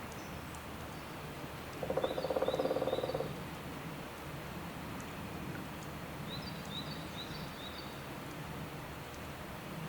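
A frog gives one rapid pulsed croak, about a second and a half long, starting about two seconds in; it is the loudest sound. A small bird chirps in quick runs of three or four high notes, twice, over a steady low outdoor noise.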